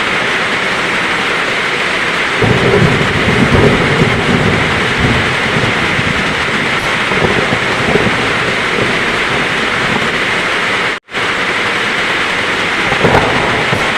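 Heavy rain falling steadily, with low rolling thunder, strongest a few seconds in. The sound cuts out for an instant about eleven seconds in.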